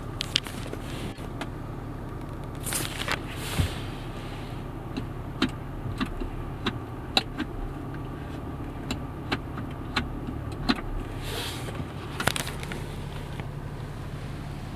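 Land Rover Discovery 4's engine running, heard inside the cabin as a steady low hum. Scattered sharp clicks come through it, with two brief rushing noises, one about three seconds in and one near the end.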